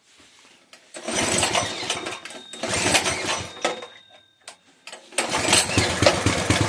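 Coleman minibike's small single-cylinder engine being restarted after stalling: two spells of cranking, then it catches a little after five seconds in and runs with an even beat. It stalls whenever the throttle is snapped open quickly, the fault that a carburetor replacement is meant to cure.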